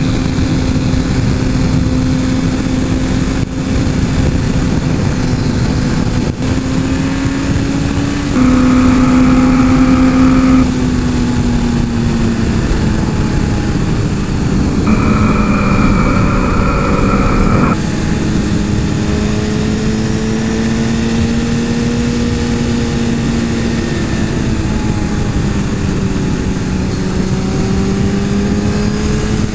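Suzuki GSX-R 1000 inline-four motorcycle engine running under way at a fairly steady speed, its pitch drifting gently up and down, with heavy wind rushing over the helmet microphone. Twice it briefly gets louder, about eight seconds in and again about fifteen seconds in.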